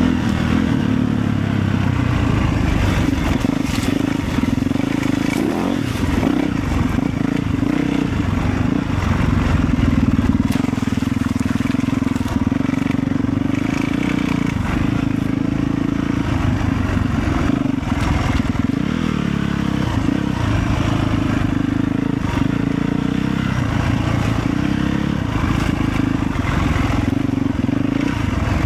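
Motorcycle engine running steadily under way, its note swelling and easing a little with the throttle.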